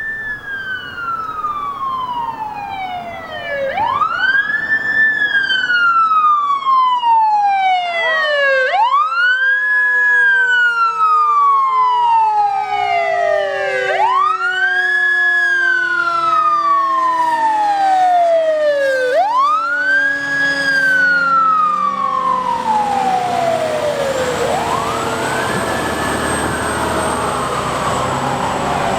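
Police car sirens on a slow wail, each cycle rising quickly and falling slowly about every five seconds, with several sirens overlapping as the cars respond Code 3. In the last few seconds vehicle engine and tyre noise grows louder under the sirens.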